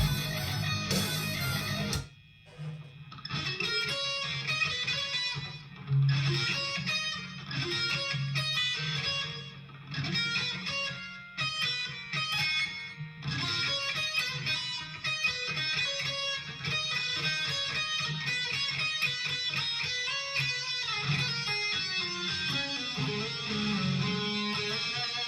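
Electric guitar playing fast lead-solo runs in short phrases, with brief pauses between them. A fuller, denser passage cuts off abruptly about two seconds in.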